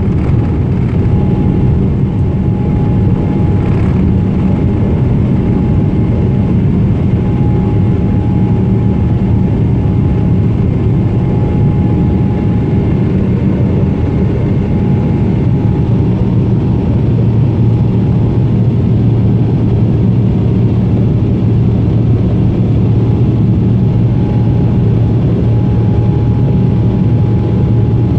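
Steady roar of a Boeing 777's engines and airflow heard from inside the passenger cabin, low and even, with a faint steady tone over it.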